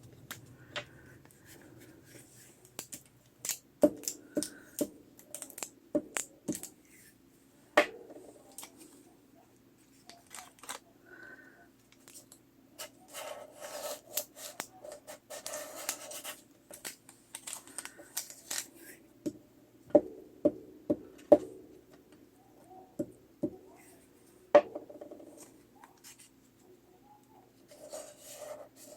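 Paper and craft tools being handled on a tabletop, with scattered sharp taps and clicks and stretches of scratchy rubbing on paper.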